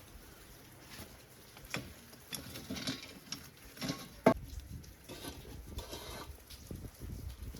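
Scattered light taps, knocks and short scrapes of things being handled, with one sharper knock a little past the middle.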